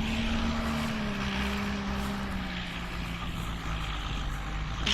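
Diesel tractor engine running steadily under load while pulling a disc harrow, its pitch sagging slightly about a second in.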